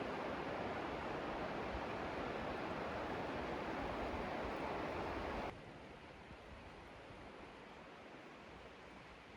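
Steady rushing of running water, cutting off abruptly a little past halfway to a much fainter, even background hiss.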